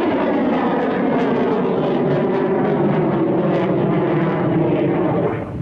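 Kalibr cruise missile launch: a loud, steady rushing roar from the rocket booster, its pitch slowly falling as the missile climbs away. It cuts off sharply near the end.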